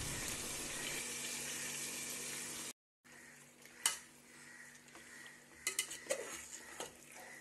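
Marinated chicken going into hot fried masala in a metal pot: an even sizzle for the first few seconds, then, after a cut, quieter stirring with a few sharp clinks of a slotted metal spoon against the pot.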